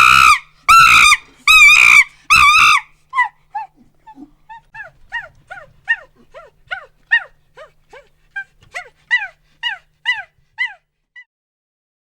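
Monkey calling: four loud, high screeches in the first three seconds, then a run of quieter short falling yelps, about two a second, that fade out and stop near the end.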